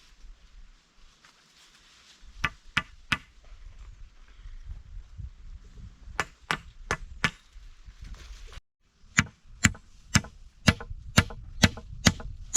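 Chopping: sharp blows of a blade into wood, in three runs, first three blows, then four, then a quicker run of about eight at roughly two a second.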